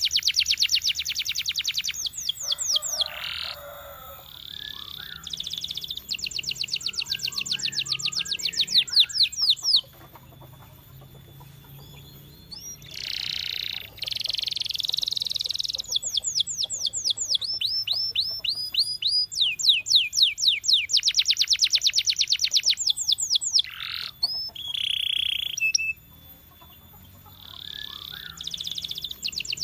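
Domestic canary singing: fast trills of rapidly repeated high notes, delivered in phrases of a few seconds each, with brief pauses and changes of note type between phrases.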